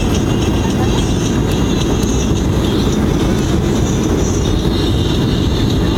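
Steady, loud rumble heard inside the cabin of a Boeing 737-800 airliner during landing: engine and airflow noise, with no sudden thumps or changes.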